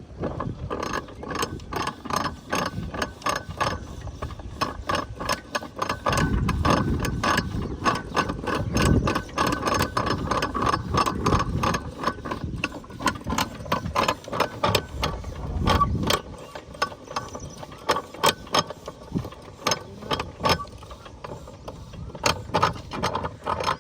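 A 12 hp diesel water-pump engine being turned over, with a fast rhythmic mechanical clicking and clanking and a heavier low rumble between about 6 and 16 seconds in.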